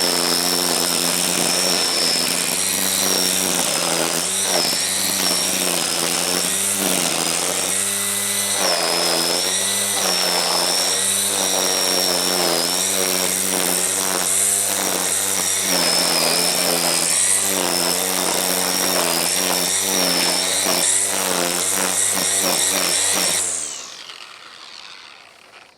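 String trimmer (weed whacker) running steadily while cutting grass, then switched off near the end and winding down to a stop.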